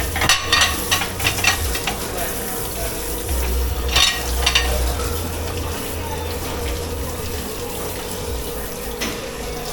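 Dish pit sounds: a steady rush of running water over a constant hum, with bursts of clattering dishes near the start and again about four seconds in.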